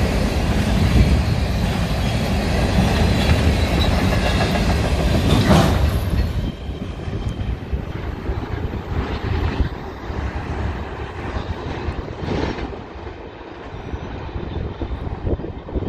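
Freight train of flatcars loaded with military vehicles rolling past close by, with wheels clattering on the rails and wind buffeting the microphone. About six seconds in the noise drops sharply as the cars pass, and it fades to a distant rumble with a few louder gusts.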